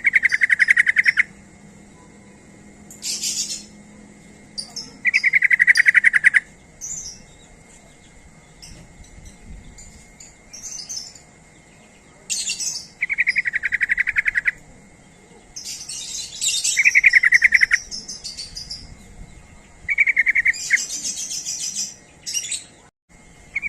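Yellow-vented bulbul (trucukan) song: loud, rapid bubbling phrases about a second long, repeated every few seconds, with shorter high-pitched chirps in between.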